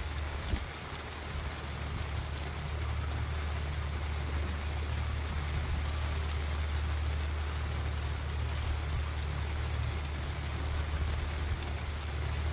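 Steady rain falling on a lake, an even hiss, over a constant low rumble. A single sharp tap comes about half a second in.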